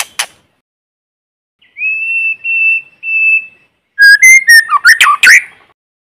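White-rumped shama singing: two sharp clicks, then a steady whistled note held about two seconds in three parts, then a loud, fast phrase of sweeping whistles and clicks.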